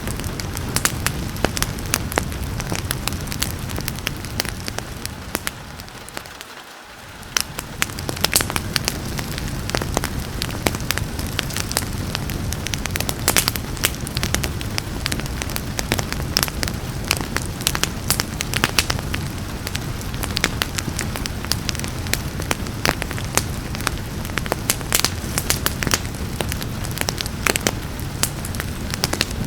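Wood fire crackling with many sharp pops over a steady hiss of rain. About six seconds in the whole sound dips and fades back up over a couple of seconds.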